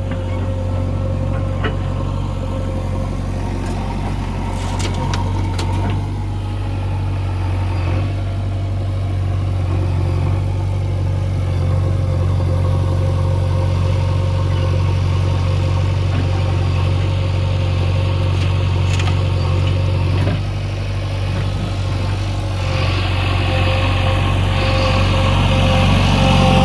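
Diesel engine of heavy machinery running steadily at a low, even pitch, with a few sharp knocks. The sound dips briefly about twenty seconds in, then builds again with more hiss near the end.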